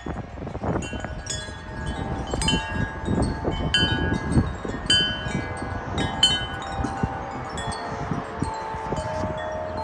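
Wind chimes struck rapidly and irregularly by strong, gusty wind, with many overlapping ringing tones. Wind rumbles on the microphone underneath.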